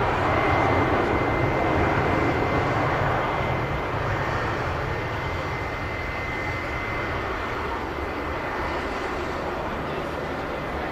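Airliner engine noise: a loud rush with a thin steady high whine through it, easing off about four seconds in and then running on more quietly.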